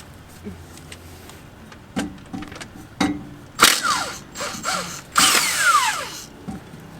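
Impact gun run in two short bursts on a car's transmission mount bolts, its whine falling in pitch as it winds down after each burst, with a few sharp metallic knocks before them.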